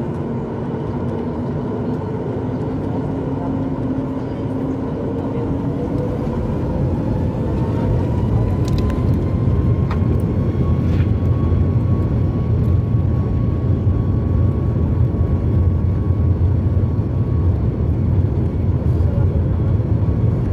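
Jet engines of a Boeing 737 MAX 8 (CFM LEAP-1B turbofans) heard from inside the cabin, spooling up. Their whine rises in pitch over the first several seconds, then a louder, steady deep rumble sets in as thrust builds.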